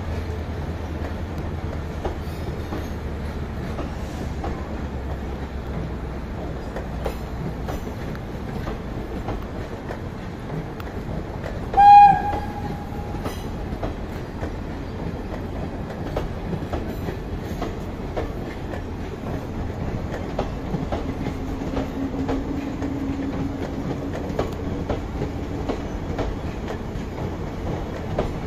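Passenger coaches of an express train rolling past at steady speed, a continuous rumble with the wheels clicking over rail joints. About twelve seconds in, a single short, loud, high-pitched blast cuts through.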